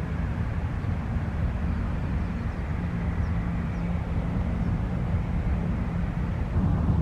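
Steady rumble of jet airliner engines, with a faint high chirp or two.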